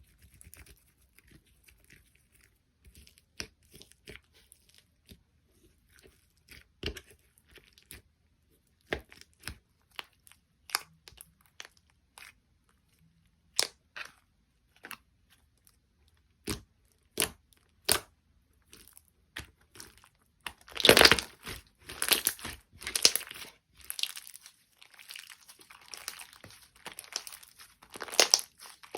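Slime being handled with the fingers: scattered sharp sticky clicks and pops at first, then, about two-thirds of the way in, louder and denser crackling and crunching as it is squeezed and stretched.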